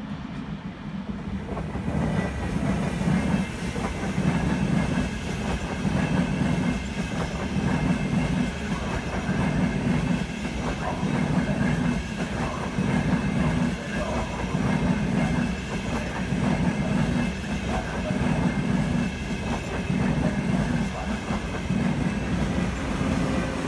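A train passing through a railway station, its wheels clacking over the rail joints in a regular beat about every one and a half to two seconds. The sound builds up over the first two seconds, with a faint steady high ring above the rumble.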